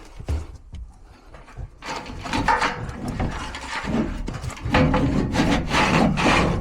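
Rough scraping and rubbing, sparse at first and then heavy and continuous from about two seconds in: a technician lying down and shifting on a crawl-space floor while working a furnace blower assembly.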